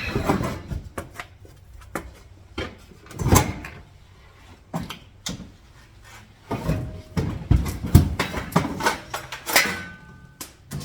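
Irregular clicks, knocks and short scrapes of small metal hardware and a hand tool being handled while a door lock is fitted, with a few louder scraping knocks scattered through.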